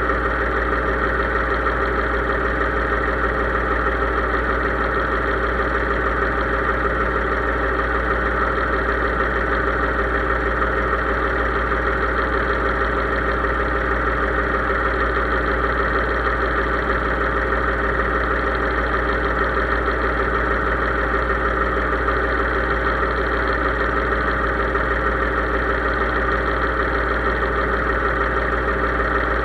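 Case IH 3220 tractor's diesel engine running at a steady speed, with an even, unchanging drone.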